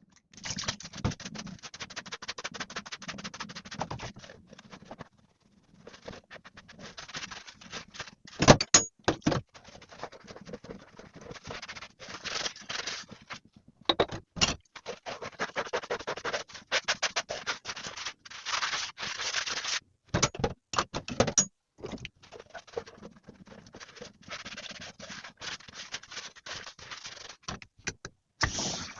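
Hands handling household objects: continuous rapid rustling and scraping with a few sharper knocks and brief pauses.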